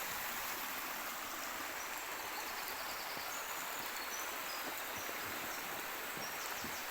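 Shallow stream running and cascading over stones, a steady rush of water. A few faint, short high bird chirps sound over it in the middle.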